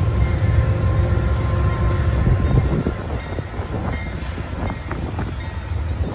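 Union Pacific freight train rolling past: a loud, deep rumble with a steady hum, then scattered clicks and clatter of wheels on rail joints from about halfway through.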